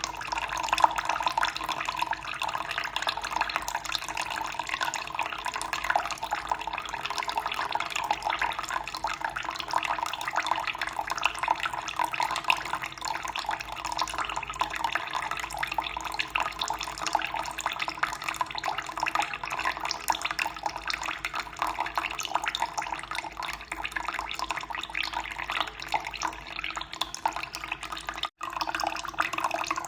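Running water flowing steadily, a continuous splashing trickle with a momentary break near the end.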